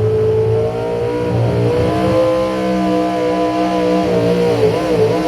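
Loud engine of a truck or tractor at full power during a pull. Its pitch climbs, holds high and steady, then wavers rapidly up and down near the end.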